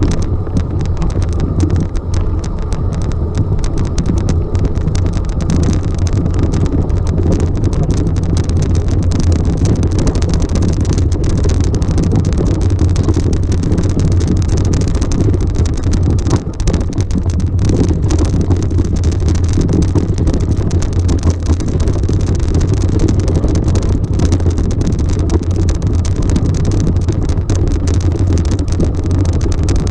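Motor vehicle running steadily: a loud, unbroken low rumble.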